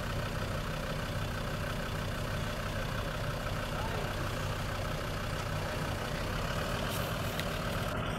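Land Rover Defender's engine idling steadily, a low even drone.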